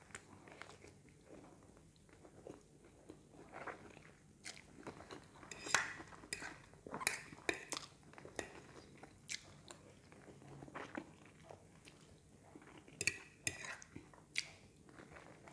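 Close-up eating sounds: a person biting and chewing pancit kanton stir-fried noodles, in irregular short crackles and smacks, with an occasional fork click on the plate.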